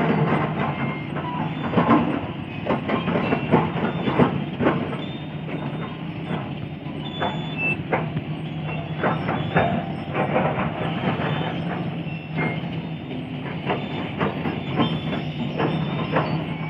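Sany 210 hydraulic excavator's diesel engine running steadily, with many irregular knocks from the machine at work.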